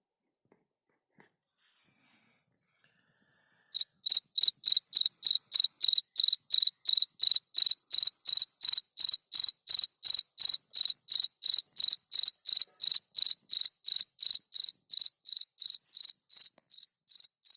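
Field cricket (Gryllus campestris) singing: a regular series of short, high-pitched chirps, about three a second. It starts about four seconds in and fades a little near the end.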